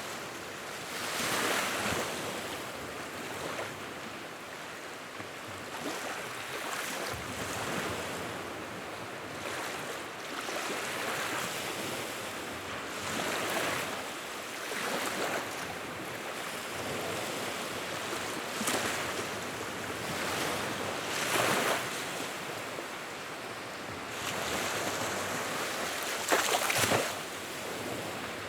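Wood fire in a fireplace, crackling and hissing steadily with scattered small pops and a sharper, louder pop near the end.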